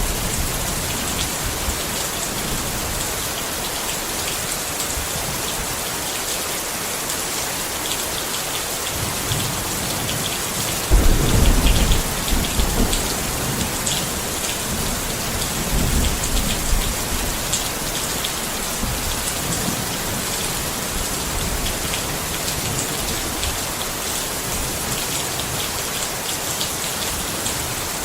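Steady rain pattering on a tent, an even hiss with scattered drop ticks. A brief low rumble swells up about eleven seconds in and is the loudest moment, with a fainter one a few seconds later.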